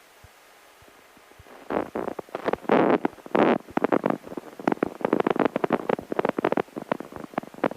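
Rapid, irregular knocks and rattles starting about two seconds in: the 1948 Cessna 140's landing gear and airframe jolting as the airplane touches down and rolls on a grass runway, heard over the aircraft intercom.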